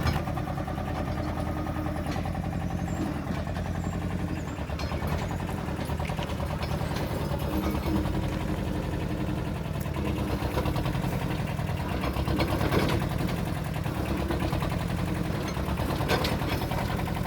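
Small diesel engine of a Kubota TD15S mini dozer idling steadily with an even, fast firing pulse, with a couple of brief knocks late on.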